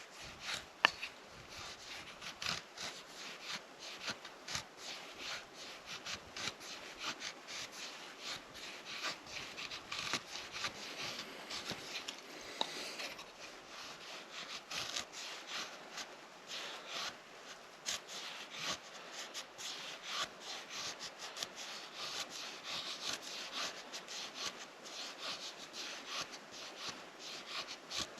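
Irregular rustling, scraping and light clicking of hands working with materials, with one sharper knock about a second in.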